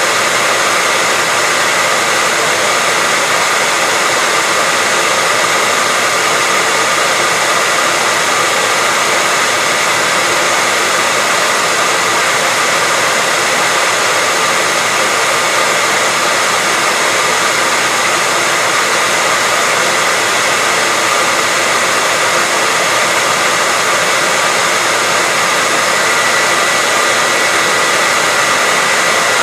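Hair dryer running steadily: an even, unbroken rush of air with a faint steady whine from the motor, played as white noise.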